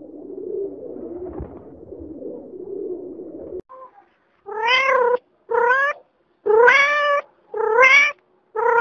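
A cat meowing repeatedly: five short, rising meows about one a second, starting about halfway through. Before them is a low, continuous murmuring sound.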